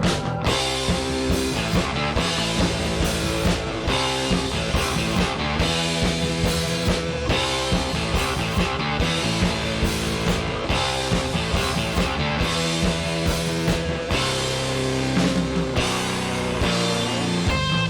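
Rock band playing live: electric guitar riffs over a simple drum beat, with bass.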